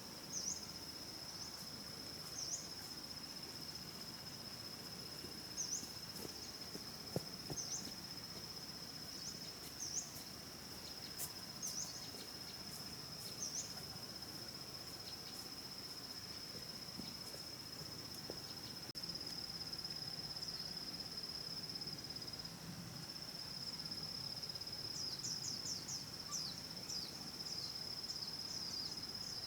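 A steady, high, continuous drone of insects such as crickets or cicadas. Short high chirps sound every second or two, and a quick run of chirps comes near the end.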